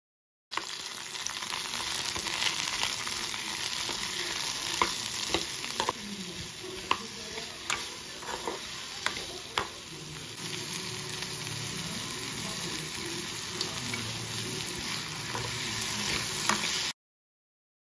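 Chopped onion, tomato, chillies and greens sizzling in oil in a nonstick kadai as a steel ladle stirs them. Sharp clicks of the ladle against the pan come over the steady hiss, most of them between about two and ten seconds in.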